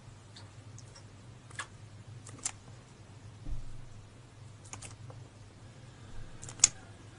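A handful of sharp clicks and taps as an African bullfrog snaps at ants on a smartphone screen, the loudest near the end, with a dull thump midway, over a low steady hum.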